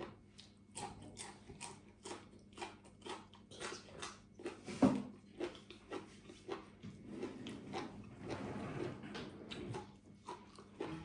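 Close-up mouth chewing and crunching crisp food, a raw green vegetable stalk bitten at the start: a steady run of crisp crunches about three a second, with one louder crunch about five seconds in.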